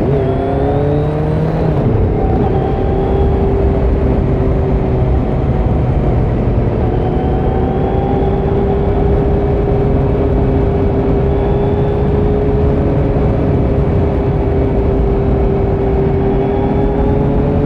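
2018 Kawasaki Z900's inline-four engine through a Leo Vince muffler with the dB killer removed, heard from the saddle. It revs up, dips briefly at the start and climbs again for about two seconds, then holds nearly steady revs, rising slightly near the end, over wind and road noise.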